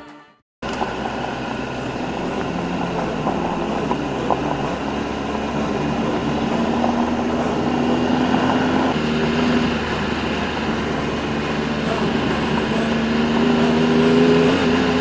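Adventure motorcycle engine running under way, with a steady rumble and noise over it. There is a short cut to silence in the first half second, and the sound grows a little louder toward the end.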